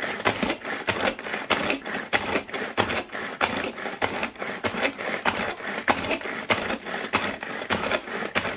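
A rapid, uneven run of sharp taps or clicks, about four to five a second.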